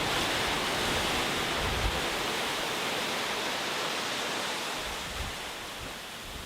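Sea waves breaking and washing on a beach: a steady surf hiss that eases off slightly toward the end, with some wind rumble on the microphone.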